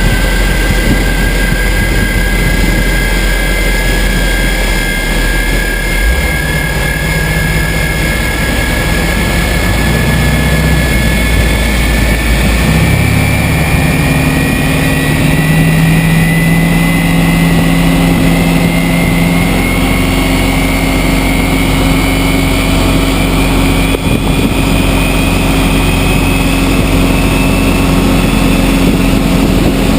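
Boeing 777 jet engine whine rising slowly in pitch, over the low steady drone of the pushback tug's engine. The tug's drone steps up in pitch about six seconds in and again about thirteen seconds in.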